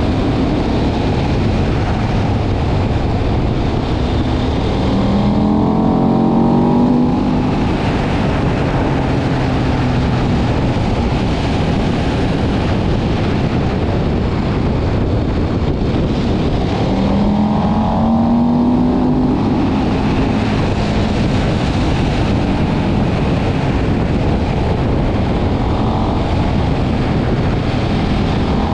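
KTM 1190 Adventure's V-twin engine under way at speed, its pitch climbing as it accelerates through the gears about five seconds in, again past halfway, and at the end, over a constant rush of wind noise.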